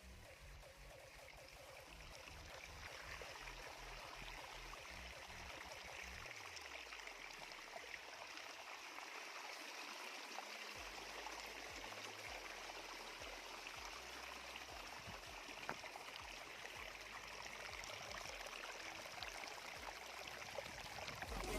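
Faint, steady rushing of flowing stream water, growing slightly louder over the first few seconds.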